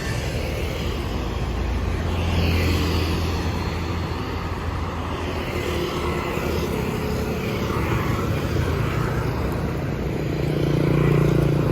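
City street traffic: motorbikes and cars passing in a steady rumble, with engines swelling and fading, and one passing close near the end.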